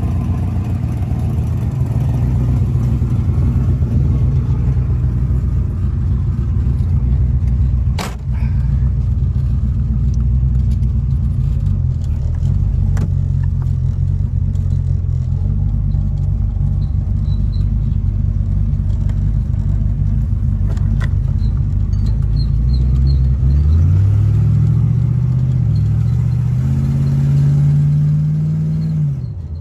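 327 cubic inch Chevrolet small-block V8 running with a steady low rumble at idle, then revved up twice near the end before dropping back to idle.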